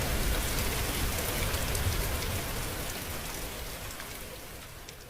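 Steady rain falling, gradually fading out.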